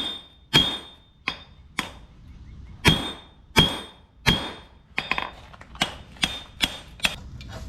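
Blacksmith's hammer striking a hot railroad-spike axe head on the anvil, about one blow every two-thirds of a second with a clear ring after each. There is a short pause about two seconds in, and the strikes become lighter and quicker after about five seconds.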